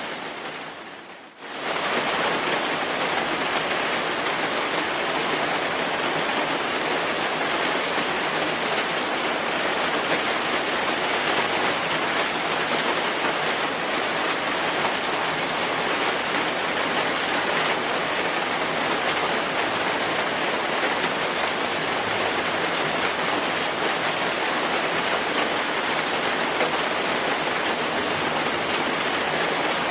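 Steady rainfall, an even dense hiss of many drops. It fades out briefly about a second in, then comes straight back and holds steady.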